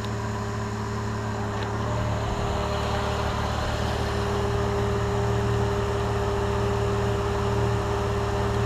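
Holden VT Commodore car engine idling steadily while serving as the jump-start source for a motorcycle's flat battery.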